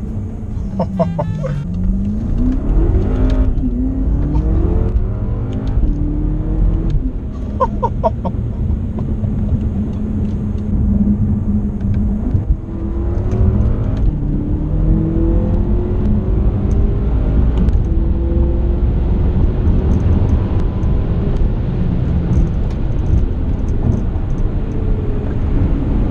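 BMW F10 M5's twin-turbo V8 with a full Akrapovic exhaust running under way, its pitch rising and dropping back several times as the car accelerates through the gears.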